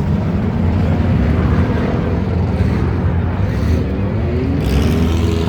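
Several racing trucks' engines running and revving together, with a rising engine pitch about four to five seconds in.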